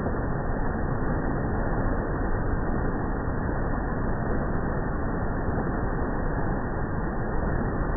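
River water rushing in a steady, even roar of flowing noise.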